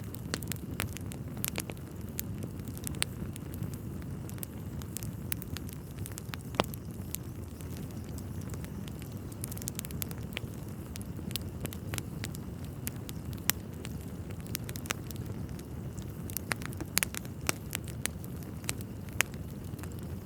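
Wood fire burning in a fireplace: a steady low rumble with sharp crackles and pops scattered throughout, coming in a quicker cluster near the end.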